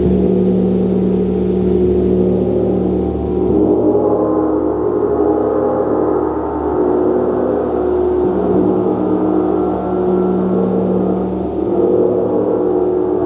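A gong played continuously, its dense stack of sustained tones swelling and ebbing as it is kept sounding.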